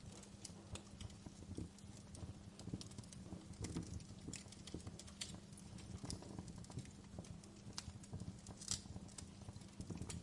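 Wood fire crackling in a fireplace: irregular sharp pops and snaps over a low, steady rumble, with one louder snap near the end.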